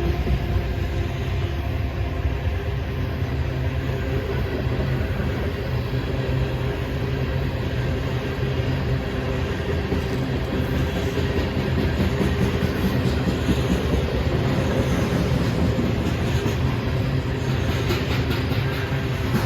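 A freight train rolling past with a steady rumble. A quick run of clicks near the end, as wheels cross rail joints.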